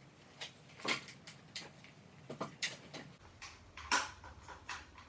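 Light, scattered clicks and knocks from a Stihl MS 261 C-M chainsaw being handled and readied to start after its bar and chain were refitted. A faint low hum comes in about three seconds in.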